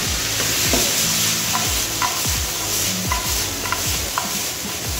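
Sliced bell peppers, onion, mushrooms and chicken sizzling with a steady hiss in a frying pan on a gas burner while they are stirred and the pan is tossed, with a few light clicks.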